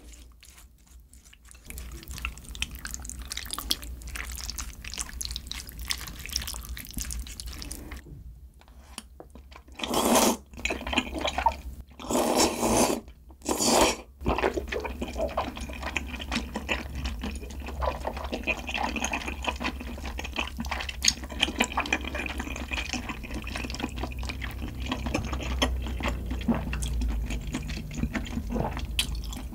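Mala tang broth sloshing and dripping in a bowl, with a few louder splashy bursts about ten to fourteen seconds in.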